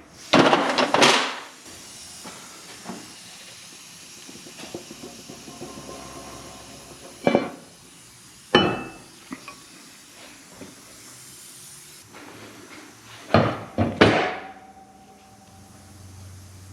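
Metal clanks and knocks from steel parts and tools being handled and set down: a few separate impacts, some leaving a short metallic ring, over a low steady hiss.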